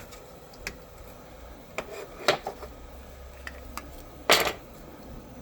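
Handling noises from the parts of a CNC spindle dust shoe and its brush inserts: scattered light clicks and knocks, with a louder short scrape about four seconds in.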